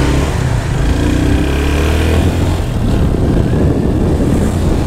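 Yamaha FZ25's single-cylinder engine running as the motorcycle rides along the road, rising in pitch as it accelerates over the first two seconds. Wind buffets the microphone through the second half.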